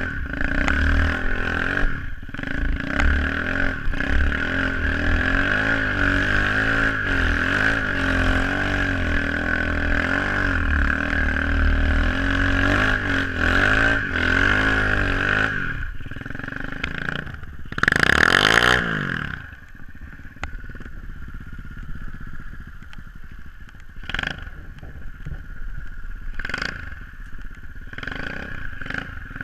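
SSR 125cc pit bike's single-cylinder four-stroke engine being ridden, its revs rising and falling for the first half. About two-thirds through it revs up sharply and drops back, then runs quieter near idle with a few light clacks.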